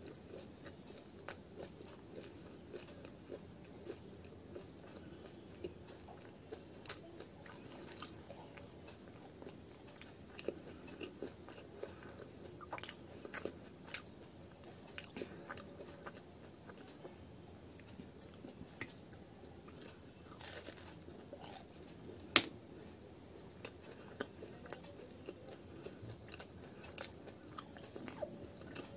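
A person chewing a crisp fried radish kachori close to the microphone, with small crunches and mouth clicks scattered throughout. One much sharper click comes about three-quarters of the way through.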